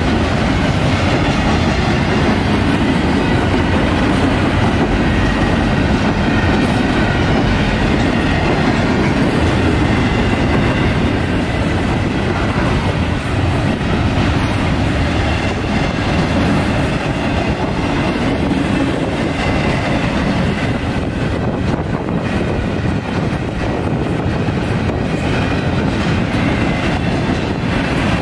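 Norfolk Southern intermodal freight train's container well cars rolling past close by, a loud, steady rail noise of wheels on track.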